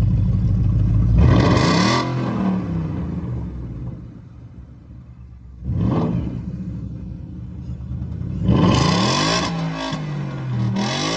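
Ford Mustang's engine revved in short blips, about three times: a rev that climbs and falls back a couple of seconds in, a sharp quick blip near the middle, and another rising and falling rev near the end, settling back to idle in between.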